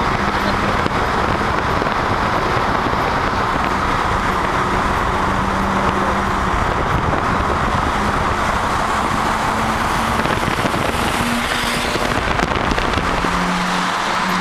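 BMW 325i E36's straight-six engine running at steady cruising revs under heavy wind and road noise, picked up by a camera held out of the side window in a road tunnel. Near the end the low wind rumble drops away as the microphone comes back inside the car.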